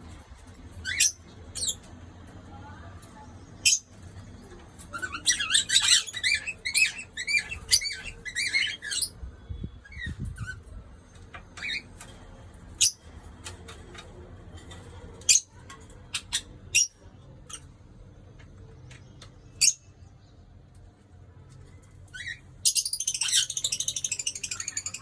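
Small parrots calling in a colony of sun conures, cockatiels and lovebirds: short, sharp screeches scattered throughout, with bursts of rapid chattering about five seconds in and again near the end.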